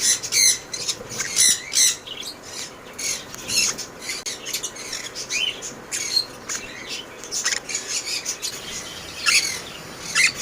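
Maroon-tailed conures calling: a string of short, sharp squawks and chirps, loudest in the first two seconds and again near the end.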